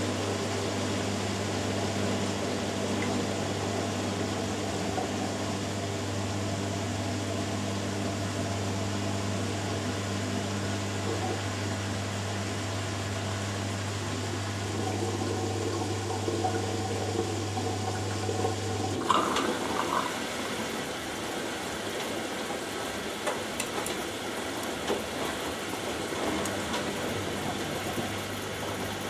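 Two front-loading washing machines running together. A steady electric hum cuts off about two-thirds of the way through with a couple of clicks, and water then rushes in as a rinse fill begins.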